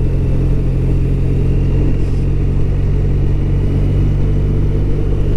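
BMW R1200RT's boxer twin engine running at a steady, even speed while riding, with road and wind noise underneath.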